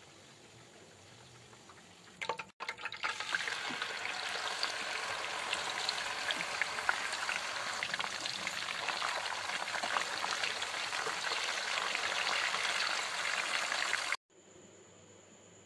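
Marinated chicken tikka boti on wooden skewers shallow-frying in hot oil in a frying pan: a dense, steady sizzle full of fine crackles. It starts abruptly a couple of seconds in and cuts off abruptly near the end.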